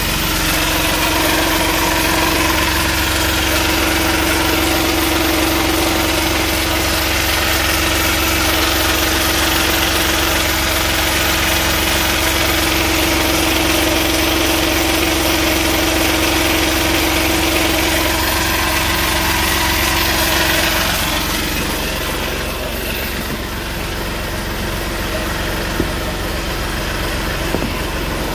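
Mitsubishi Colt engine idling steadily, heard from beneath the car, running on fresh oil just after an oil and filter change. About three-quarters of the way through its note changes and it grows a little quieter, and two faint clicks come near the end.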